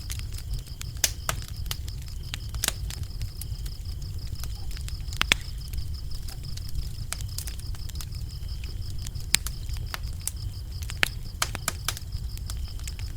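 Wood fire crackling, with irregular sharp pops over a low steady rumble of flames, and crickets chirping in a steady high pulsing trill behind it.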